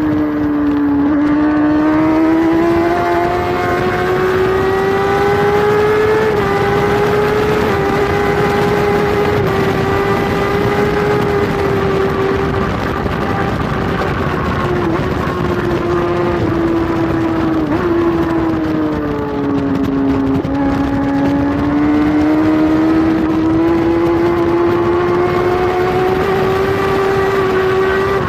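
Kawasaki superbike's inline-four engine heard from on board at high revs, its pitch sagging and climbing again over several seconds as the throttle is rolled off and reapplied, with a couple of brief dips just past the middle.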